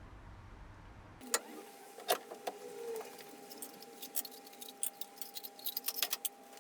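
A run of sharp metallic clicks and clinks over a faint steady whine. The clicks are scattered at first and come thick and fast in the second half.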